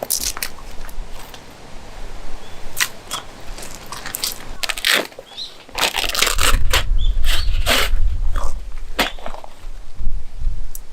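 Irregular sharp crunches and cracks, a dozen or more, bunched most thickly in the middle, over a low rumble.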